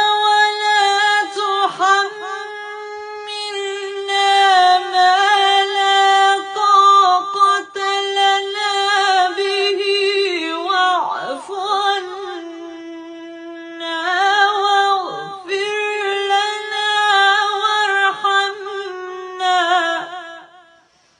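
A woman's solo voice chanting Quranic recitation in a long, drawn-out melodic line. She holds sustained notes with quavering ornaments and takes short breaths between phrases. The voice sinks to a lower held note about halfway through, then rises again before the phrase ends and fades out near the end.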